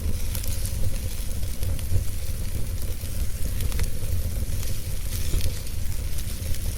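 Wood fire burning: a steady hiss with scattered small crackles and pops of burning wood over a constant low rumble.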